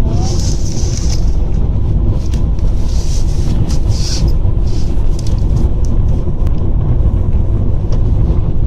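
Car interior road noise: a steady low rumble of the moving car heard from inside the cabin, with a few brief high-pitched sounds in the first second and again around three to four seconds in.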